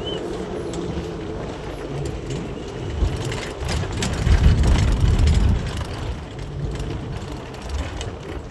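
Road vehicle noise: a low rumble with scattered clicks and rattles, swelling louder for a couple of seconds around the middle.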